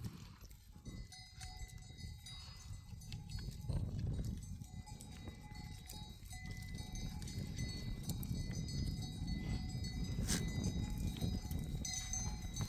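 Bells on a flock of livestock ringing and clinking, over a steady low rumble.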